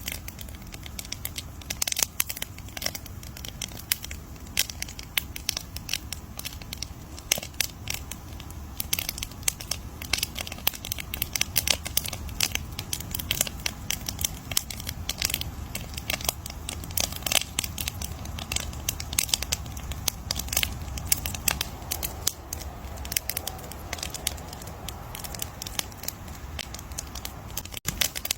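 Wood campfire crackling: a steady stream of sharp, irregular pops and snaps over a low rumble of burning, with a momentary gap near the end.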